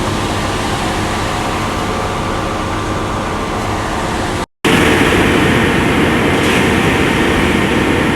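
Heavy diesel truck engine running steadily, with a brief cut about four and a half seconds in, after which it is louder.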